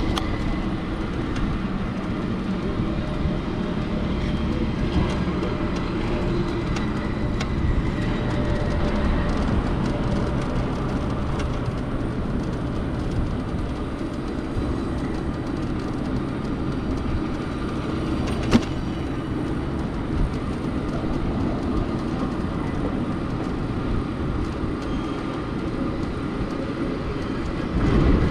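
Steady road and wind noise from an Onyx RCR electric moped riding through city traffic, with one sharp click about eighteen seconds in.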